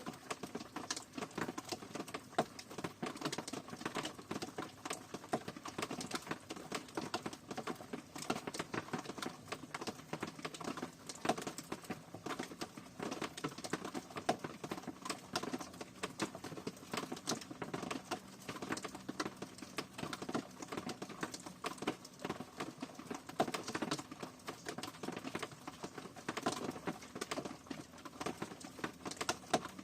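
Rain falling steadily, its drops pattering in dense, irregular taps on a hard surface.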